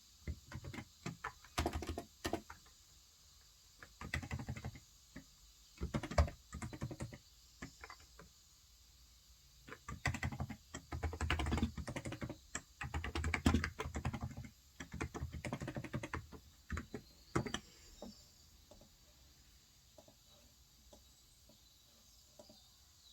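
Typing on a Cox Endeavour electrostatic capacitive keyboard (tenkeyless, 35 g switches). The keys go in bursts with short pauses, and the typing trails off to a few scattered taps a few seconds before the end.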